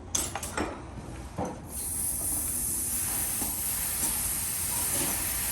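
A few light clicks, then about two seconds in, air starts hissing steadily out of a tire's valve as it is let down to deflate it.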